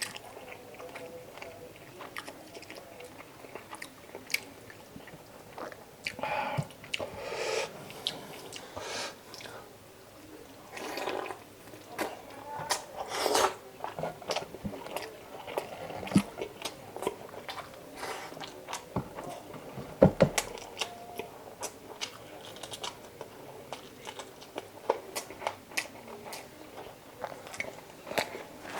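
A person eating chicken adobo close to the microphone: chewing and biting, with irregular wet mouth clicks and smacks.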